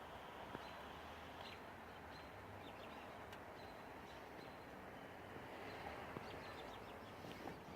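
Faint, steady outdoor hiss of a snowy day, with a few short, faint high chirps scattered through it.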